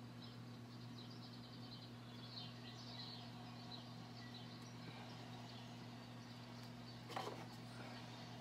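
Faint bird chirps over a steady low hum, the chirps thinning out after about five seconds, with a single brief knock near the end.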